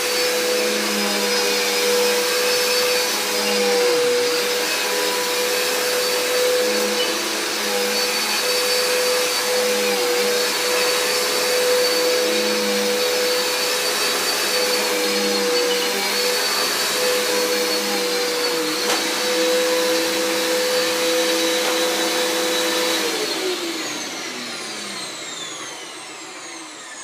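Hoover vacuum cleaner running steadily, its motor pitch dipping briefly a few times. About 23 seconds in it is switched off and winds down with a falling whine.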